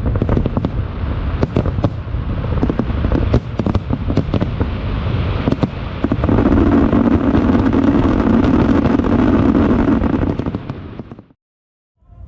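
Aerial fireworks bursting, with a rapid run of sharp bangs and crackles. About six seconds in it turns into a louder, dense continuous barrage, which then fades and cuts off near the end.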